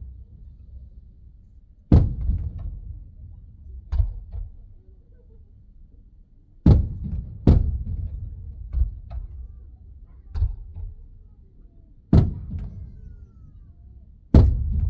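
Fireworks shells bursting overhead: a run of sharp booms at irregular intervals of about one to two seconds, each trailing off in a low rumble, muffled by the car's cabin.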